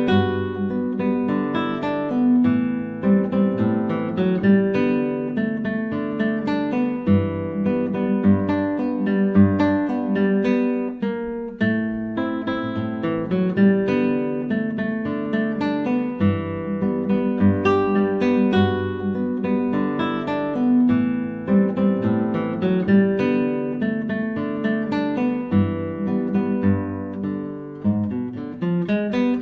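Solo classical guitar playing a fingerpicked piece: a continuous stream of plucked melody notes over regularly returning bass notes.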